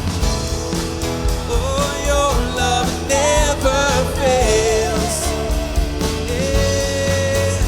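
Live worship band of drums, bass, guitars and piano playing a passage of the song without lyrics over a steady beat. A lead melody glides between notes and ends on a long held note near the end.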